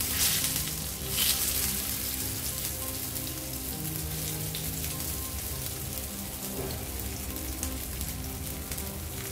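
Potato patties shallow-frying in oil in a nonstick pan: a steady crackling sizzle, with two louder bursts of sizzle near the start as a patty is turned over in the oil.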